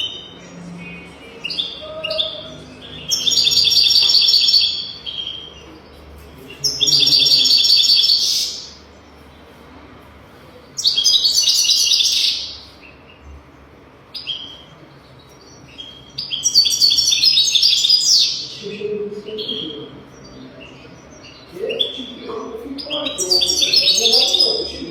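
European goldfinch singing: five loud phrases of rapid, tinkling twitters and trills, each about two seconds long, with short pauses and softer twitters between them.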